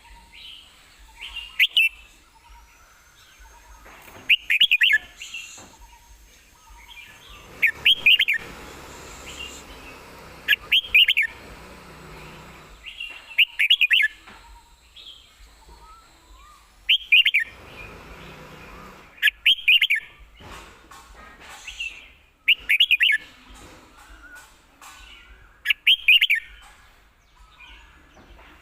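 Red-whiskered bulbul singing: short, quick whistled song phrases repeated about every three seconds, nine in all.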